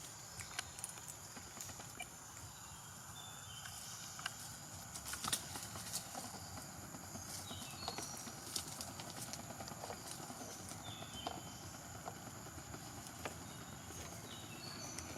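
Faint outdoor ambience: a steady thin high hum, short high chirps scattered throughout, and irregular small clicks and taps, with the sharpest tap about five seconds in.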